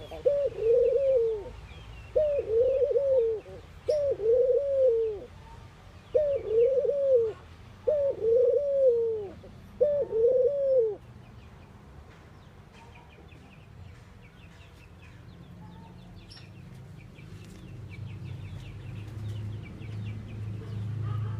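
Ring-necked dove cooing: a run of repeated, arched coos that stops about halfway through. After that, only faint chirps of small birds and a low rumble that builds near the end.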